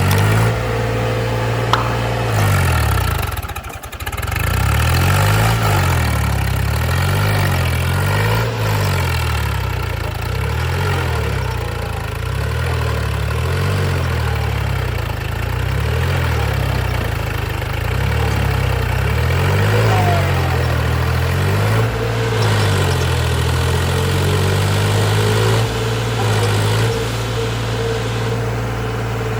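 Diesel engine of a tractor or backhoe loader running hard, its revs rising and falling again and again, with a brief drop about four seconds in.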